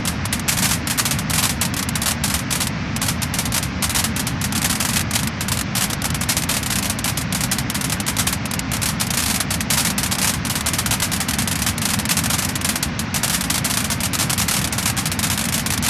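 Wood fire crackling and popping: many quick, irregular crackles over a steady low rush of burning.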